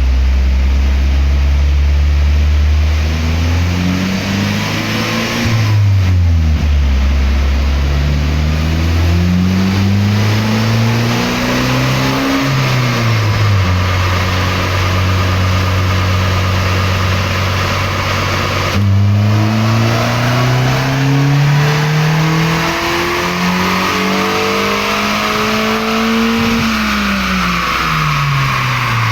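2021 Toyota Corolla SE's 2.0-litre four-cylinder, with a TRD intake and APEXi N1 cat-back exhaust, being run hard on a dyno. The revs climb and drop back a few times, then make one long climb from low revs to near the top starting about two-thirds in, and fall away near the end.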